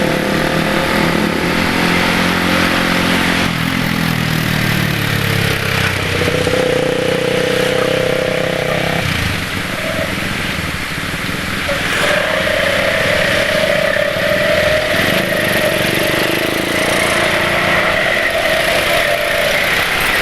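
Motorcycle engines running in road traffic, heard from a moving scooter over a steady rush of wind and road noise. An engine's note drops a few seconds in as it slows, and in the second half a steady whine holds.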